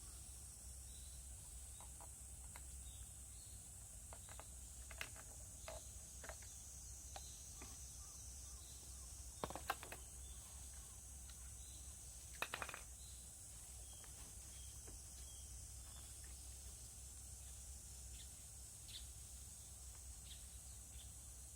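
Faint outdoor background with a steady high-pitched insect drone, broken by a few light clicks and knocks, the loudest about halfway through and again a few seconds later.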